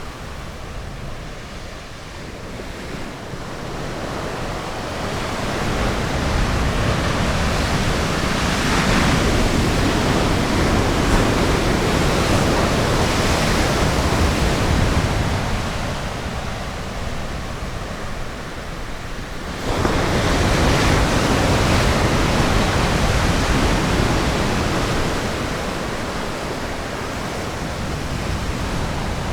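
Ocean surf breaking on a beach: a wash of waves that builds over several seconds and eases off. About two-thirds of the way through, a wave crashes suddenly and slowly washes out.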